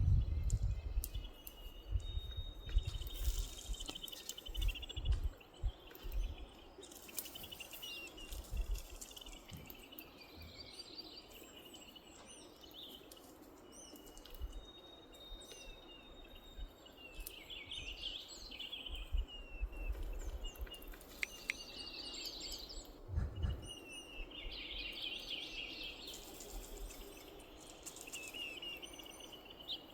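Wild birds singing, a chorus of short chirps and trills repeating throughout, over low rumbling bursts that are strongest in the first few seconds.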